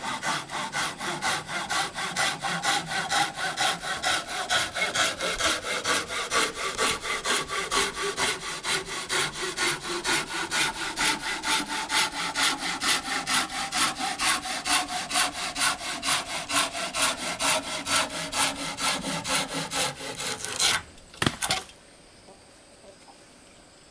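Hand saw cutting through wood in steady back-and-forth strokes, about three a second. The sawing stops a little before the end, with a short louder noise as it finishes.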